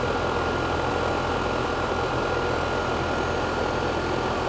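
R-410A outdoor condensing unit running steadily, its compressor humming under the whoosh of the condenser fan, with a thin steady whine over it.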